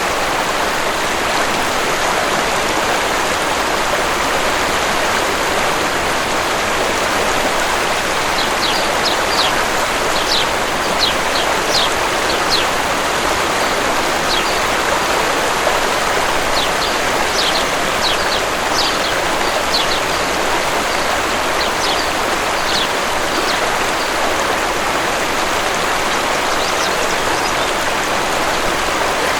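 Waterfall rushing steadily, with small birds chirping in quick runs of short high notes from about a third of the way in and again near the end.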